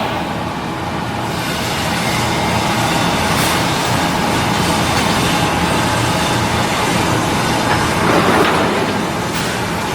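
Steady mechanical noise of heavy machinery running, swelling briefly about eight seconds in.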